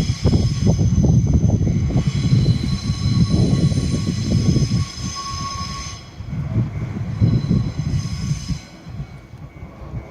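A JR 185 series electric train moving slowly. Its wheels rumble and click over the rail joints, with a steady high squeal from the wheels during the first half; the sound fades off near the end.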